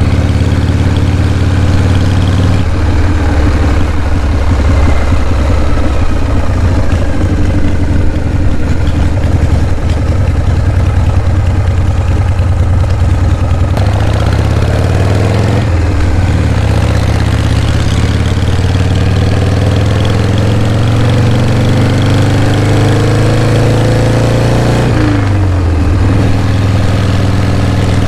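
Motorcycle engine running under way, its pitch climbing steadily through the second half and dropping sharply near the end, as at a gear change.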